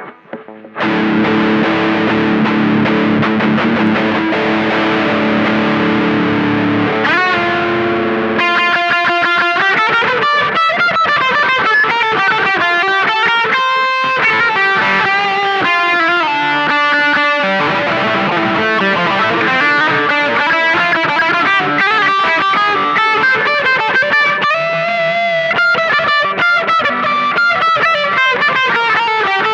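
Electric guitar played through a BOSS Katana-Mini amplifier with a distorted tone: a held chord rings for about seven seconds, a note bends upward, then a single-note lead line with bends and vibrato follows.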